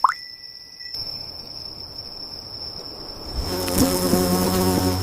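A steady, high insect trill, like crickets in a night ambience. A short rising swoosh at the start, and a louder, low pitched rumble comes in about three and a half seconds in.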